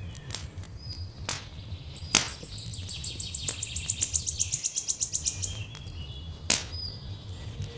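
Wood fire crackling with sharp pops, under a steady low rumble. A bird gives a rapid, high-pitched trill for about three seconds, from about two seconds in, with a few short chirps around it.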